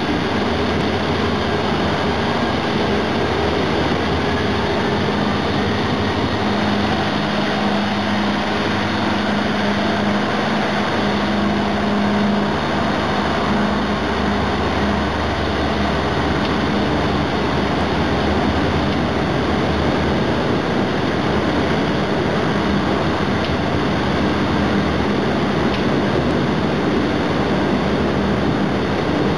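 KTMB locomotive 25102's diesel engine running steadily while hauling a train: a constant low engine hum under an even rushing noise, with no sudden changes.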